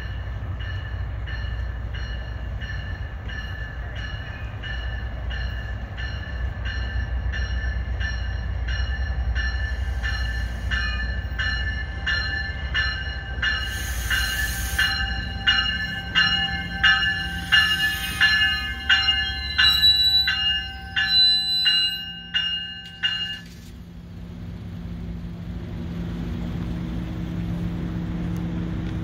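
MARC commuter train rolling into the station with its warning bell ringing steadily over the rumble of the wheels. There are short air hisses around the middle. The bell stops and the rumble dies away about three-quarters of the way through as the train halts, leaving the steady hum of the standing train.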